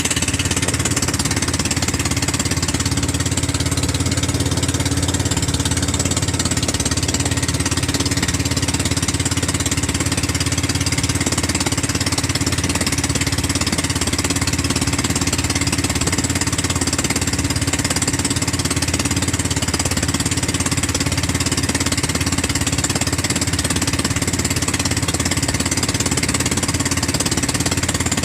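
13 HP gasoline engine running steadily at a constant speed.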